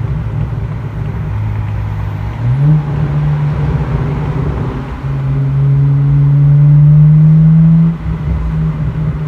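BMW E90 335i's turbocharged straight-six exhaust with the muffler deleted, heard while driving: the engine note steps up a little over two seconds in, then rises under hard acceleration for about three seconds and drops off suddenly near the end, as at a gear change or lift-off.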